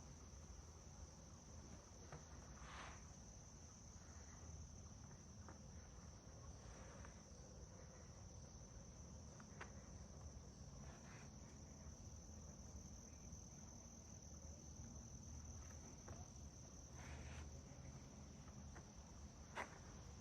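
Near silence with a faint, steady, high-pitched insect drone in the woods, and a few faint soft taps scattered through it.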